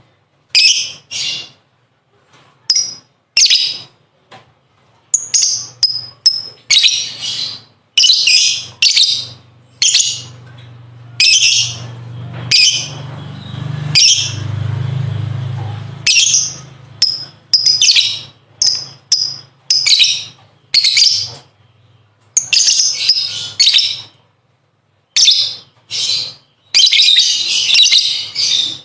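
Lovebird chattering its shrill ngekek song in repeated short bursts, with a longer, denser run near the end. A faint low rumble swells underneath midway.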